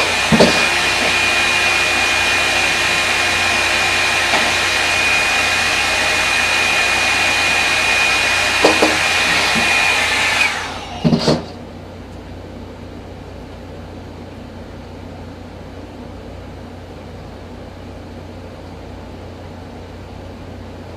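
Revlon One-Step hair dryer brush running: an even rush of air with a steady high whine, with a few light knocks as it is handled. About ten seconds in it is switched off and winds down, leaving only a faint steady hum.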